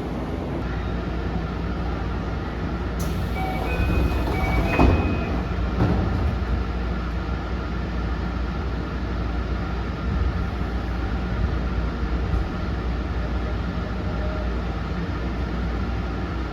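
Tsukuba Express electric commuter train running, heard from inside the car: a steady low rumble of wheels on the track with faint steady tones above it, and a brief clatter about five seconds in.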